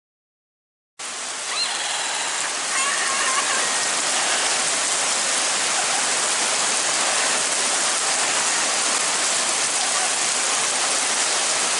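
Heavy rain pouring down steadily, a dense hiss that starts abruptly about a second in.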